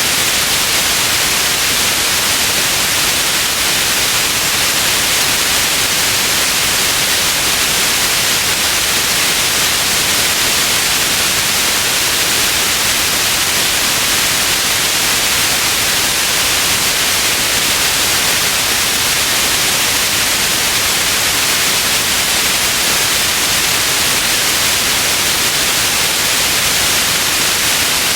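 Steady white noise: an even, unchanging hiss, strongest in the high range, with no breaks or events.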